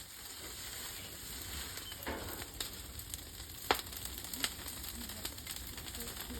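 Open fire crackling: a steady hiss with a few sharp pops.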